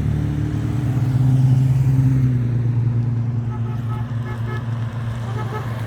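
Classic Chrysler Valiants driving slowly past in a procession, their engines running with a deep, steady note that swells about a second in and then eases off.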